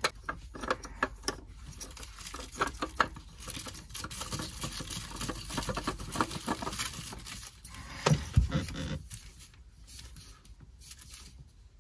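Hands working on a diesel engine's fuel filter mount: scattered light clicks, taps and rubbing as the new fine fuel filter is fitted and screwed on, with a heavier dull knock about eight seconds in.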